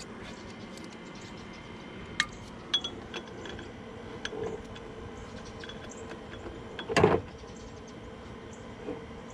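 Hose clamp being worked back onto a radiator hose with channel-lock pliers: scattered metal clicks and ticks, with one louder clack about seven seconds in.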